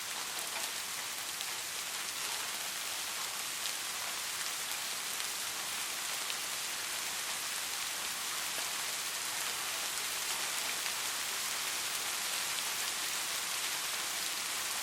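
Steady soft rain falling, an even hiss with scattered fine drop ticks.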